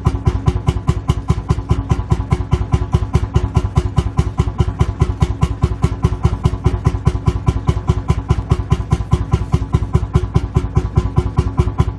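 Lanz Bulldog tractor's single-cylinder two-stroke hot-bulb engine idling, a steady, even chug of about six beats a second.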